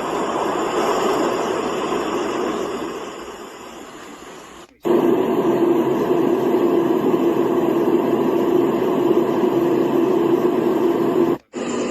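Dreamegg portable noise machine playing its soothing noise sounds. A steady rushing noise swells and then fades away. It cuts abruptly to another steady noise carrying a low hum, and near the end a brief drop-out switches it to a further sound.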